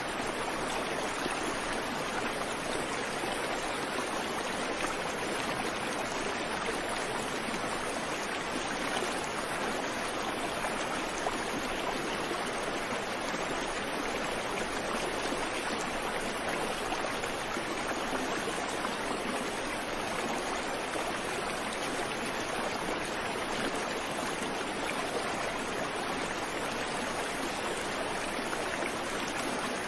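Creek water running over rocks: a steady rush with no birdsong.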